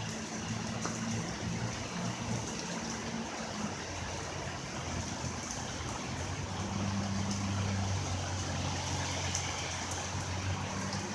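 Heavy rain falling and water running, with a steady low hum underneath.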